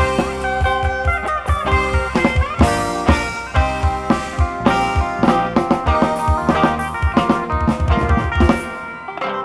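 Live Thai Isan-style band music: an amplified electric phin (plucked lute) playing a lively melody over a drum kit. The drums drop out briefly near the end.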